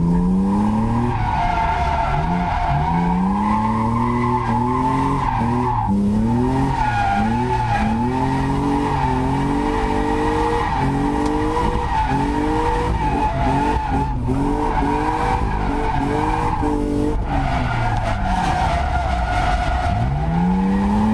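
BMW E36 Compact's swapped-in M52 2.5-litre straight-six revving up and falling back again and again as the car drifts, with tyres squealing throughout. The throttle is flipped a little to keep the engine off the rev limiter, since second gear runs out and third is hard to reach.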